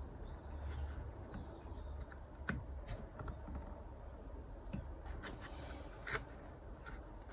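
A flat-blade screwdriver prying and scraping at the plastic cable clips of a Land Rover Freelander 2 door lock, giving scattered small clicks over a faint low hum.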